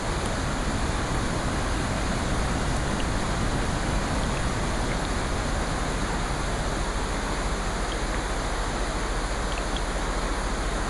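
Steady rushing water noise, even in level, with a few faint ticks scattered through it.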